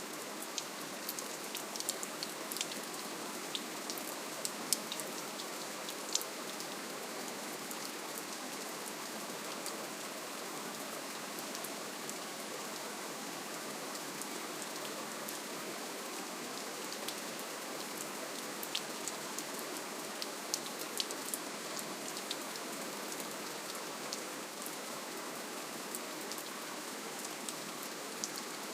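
Steady gentle rainfall: a soft, even hiss with scattered crisp ticks of individual drops striking a surface.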